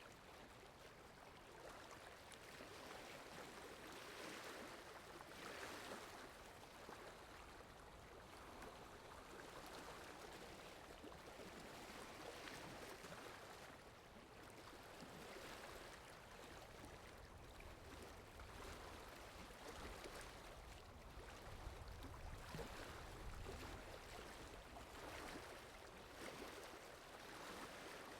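Near silence: a faint hiss with soft swishes that swell and fade every second or two.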